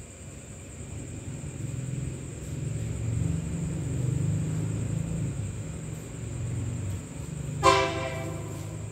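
Approaching diesel-hauled express train: the locomotive's low rumble grows louder, then one horn blast about a second long comes near the end. A cicada's steady high-pitched song runs underneath.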